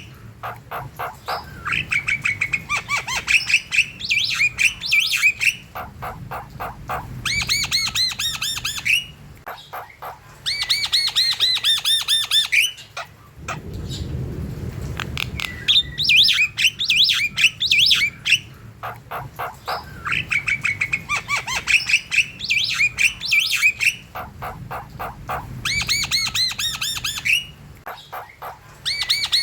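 Javan myna (jalak kebo) singing vigorously: phrases of rapid clicking chatter run into harsh squawks and looping whistled notes, with short gaps between phrases. A brief low rustle comes about halfway through.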